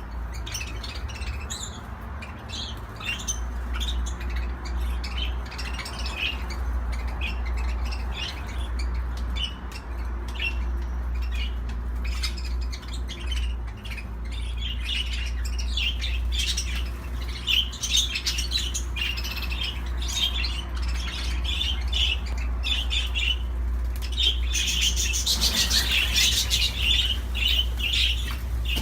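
Budgerigars chirping and chattering in a steady stream of short, quick calls, growing busier and louder near the end.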